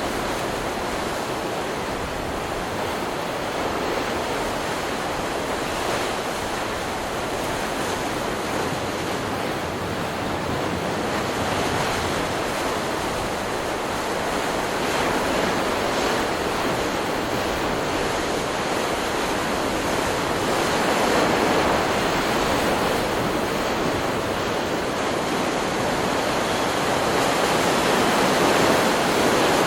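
Stock recording of ocean surf: waves breaking and washing in a continuous rush, swelling a little louder around two-thirds of the way through and again near the end.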